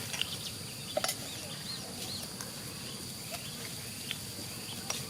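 Rural outdoor ambience: a steady high insect drone, a few faint bird chirps about a second in, and scattered small clicks.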